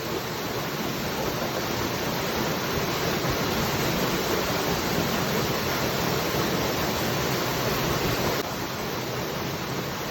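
Waterfall: a steady rush of falling water. The level steps down suddenly near the end.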